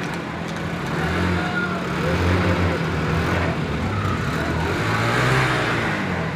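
Road traffic: a motor vehicle's engine running over a steady wash of noise, with the sound swelling twice as vehicles pass.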